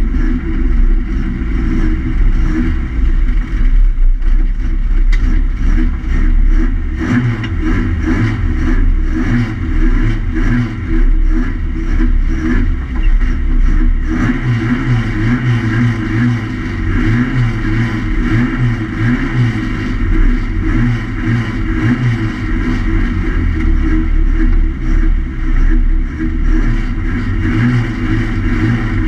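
Historic racing Mini Cooper's Swiftune-built A-series four-cylinder engine running at low speed, heard from inside the stripped cabin, its revs rising and falling irregularly as the throttle is blipped.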